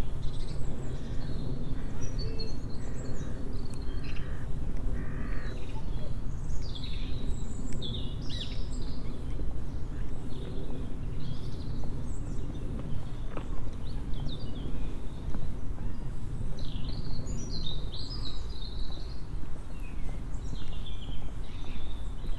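Several birds chirping and calling in short, scattered notes over a steady low rumble.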